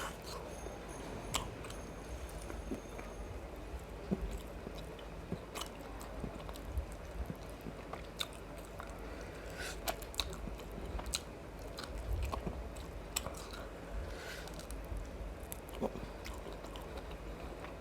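A person chewing and biting mouthfuls of biryani and mutton gravy close to the microphone, with irregular wet clicks and occasional crunches.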